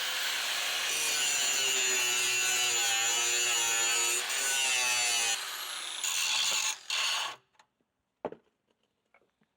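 Angle grinder grinding steel, its pitch dipping and rising as the disc is pressed into the metal. It stops about five seconds in and runs in two more short bursts before shutting off, followed by a couple of knocks.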